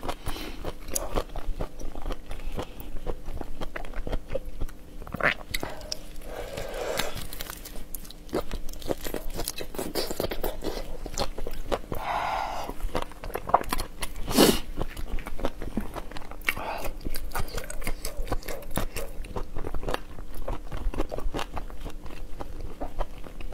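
Close-miked eating sounds of raw shrimp in sauce being bitten and chewed, with many small crunching clicks.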